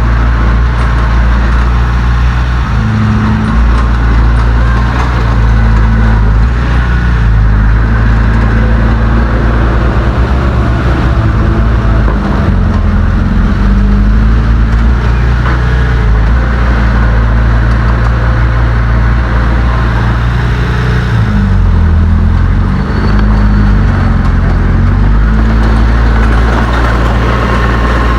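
Heavy diesel engine of earthmoving machinery running loud and continuous, its low pitch dropping and rising a few times as the load changes.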